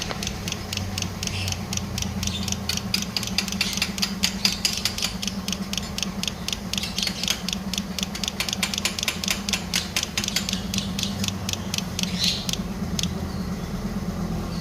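Rapid, even mechanical clicking, about five to six clicks a second, over a steady low hum; the clicking stops about a second and a half before the end.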